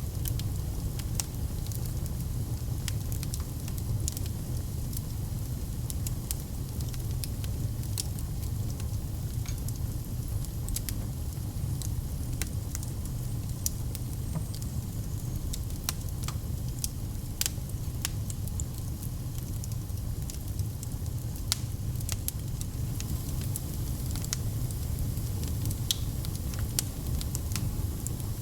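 Wood fire in a fireplace crackling, with many irregular sharp pops over a steady low rumble of the flames.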